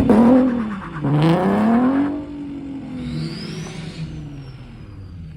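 A truck engine revving hard, its pitch rising and falling in two surges over the first two seconds, then easing off and fading as the truck moves away.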